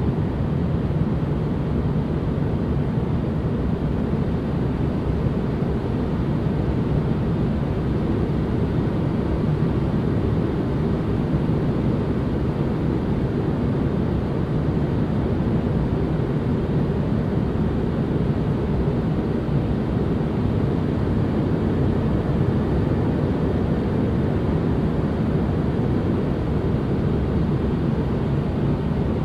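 Steady white-noise ambience: a constant, unchanging rushing noise weighted toward the deep end.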